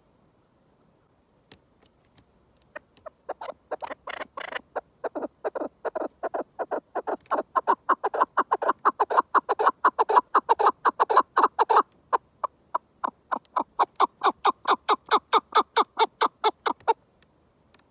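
Chukar partridge calling: a long run of rapid chuck notes, about three to four a second, starting about three seconds in and growing louder, with a short break about two-thirds of the way through, then stopping just before the end.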